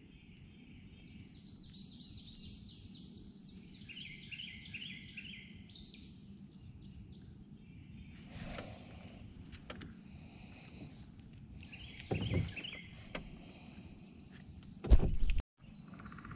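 Wild birds singing in quick, repeated high trilling phrases, in two long spells, over a low steady outdoor hum. A few knocks of handling come in the second half, the loudest about a second and a half before the end.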